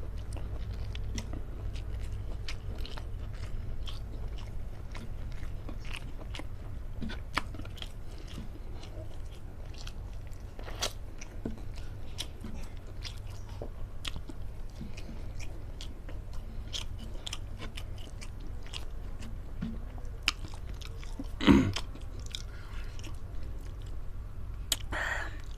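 Close-up chewing and biting of food, long beans in sambal terasi: many small wet clicks and crunches over a low steady hum, with one louder thump about 21 seconds in.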